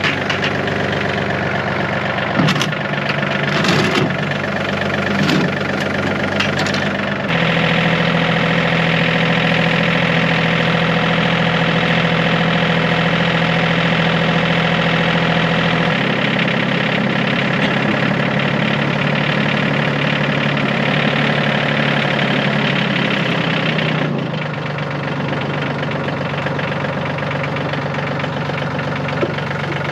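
Yanmar compact tractor's diesel engine running steadily. Its note changes in steps a few times: it gets louder about seven seconds in, then shifts again at about sixteen and twenty-four seconds. There are a few sharp knocks in the first several seconds.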